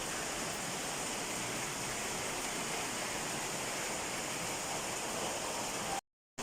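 Heavy downpour: a steady, even hiss of rain and running water, breaking off into a moment of silence just before the end.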